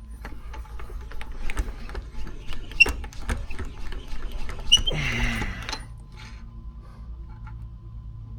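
Chainsaw chain links and a hand rivet-spinning tool clicking and clinking in quick irregular strokes as the chain's rivets are tightened, with a short scraping rasp about five seconds in; the clicking dies away after about six seconds.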